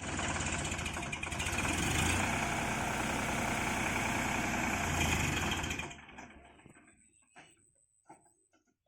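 Tractor diesel engine running loudly with a deep rumble, then dying away about six seconds in.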